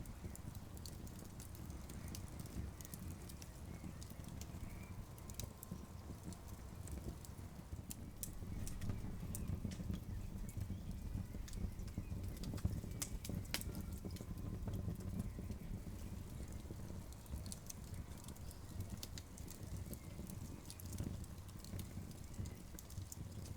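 Campfire crackling: irregular sharp pops and snaps over a low, steady rumble of the burning wood.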